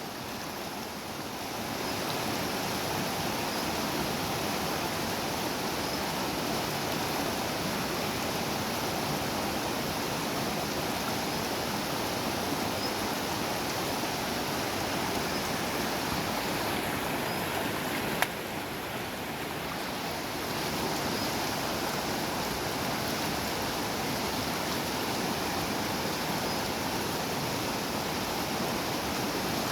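Shallow river water rushing steadily over stones. A short knock sounds about 18 seconds in, and the rush is slightly quieter for a couple of seconds after it.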